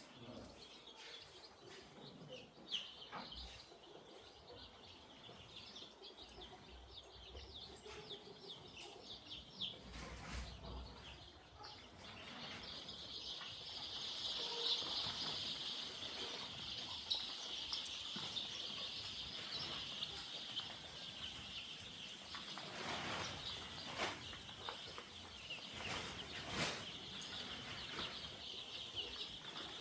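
A flock of young chicks peeping: scattered high cheeps at first, swelling into a dense, continuous chorus about twelve seconds in, with a few short knocks among them.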